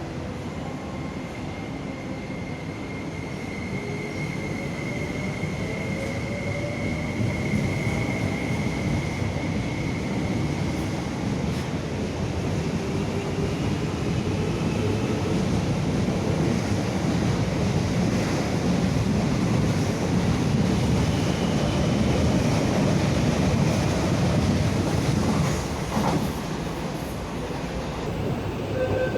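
An MTR East Rail Line electric train pulling out of a station and gathering speed. A motor whine climbs in pitch early on, and a rolling rumble of wheels on track builds steadily louder.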